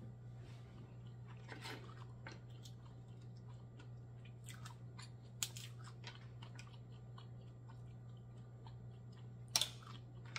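Quiet close-up chewing of mussels and rice, with small scattered clicks from mussel shells being handled and a sharper tick about halfway through. A steady low hum runs underneath.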